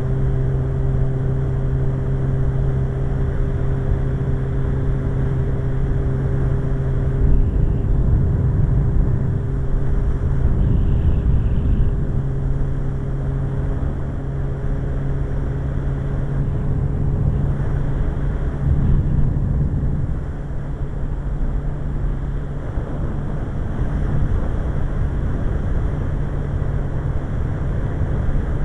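Suzuki GSX-R 1100's inline-four engine running at a steady cruising speed. Wind rushing over the microphone swells at times and partly covers the engine note.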